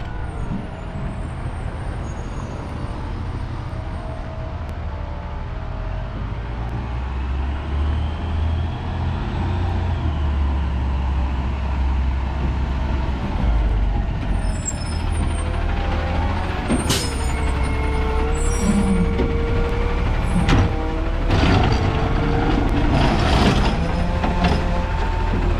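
Garbage truck's diesel engine running steadily. From about halfway through come metal clanks and squeals from its working mechanisms.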